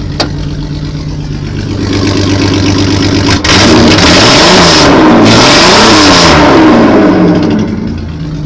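1986 Ford Ranger's engine idling, then revved hard about three seconds in, its pitch rising and falling twice over about four seconds, before settling back to idle.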